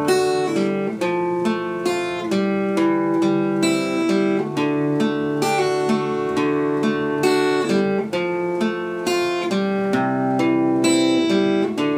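Acoustic guitar strumming chords in a steady rhythm: the instrumental intro to a country song, with no singing yet.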